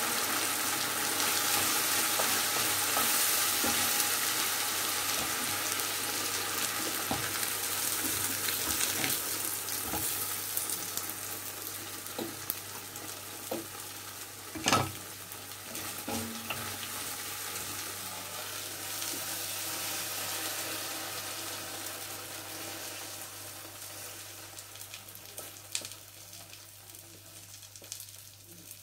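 Breaded chicken breast and peppers sizzling in hot pans, the sizzle slowly dying away as the heat is turned off. A wooden spatula clicks against the pans, with one sharp knock about fifteen seconds in.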